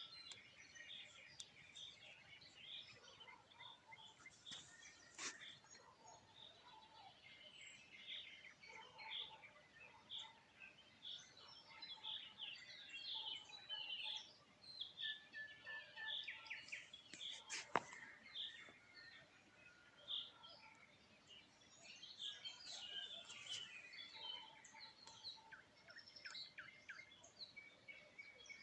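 Faint chorus of small songbirds chirping and twittering, many short overlapping calls. A single sharp click about eighteen seconds in is the loudest moment.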